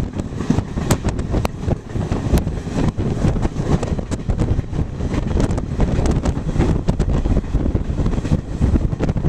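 Duronto Express passenger train running, heard from on board: a steady low rumble of wheels on the track with scattered irregular clicks and rattles, and wind noise on the microphone.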